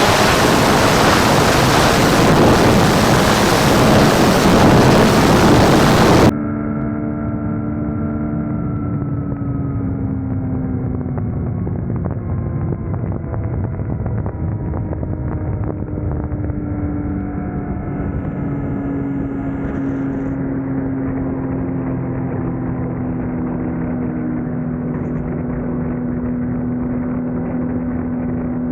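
Yamaha MT-09 ridden at speed: loud wind rush over the engine note. About six seconds in, the sound switches abruptly to a muffled, steady engine drone whose pitch sinks slowly as the bike eases off.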